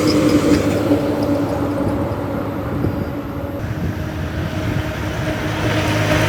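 Heavy diesel vehicle engine running steadily, a constant drone that eases a little in the middle.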